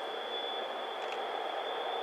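Steady, even noise of a train running at a distance, a 2TE116 diesel locomotive, with a thin steady high tone over it.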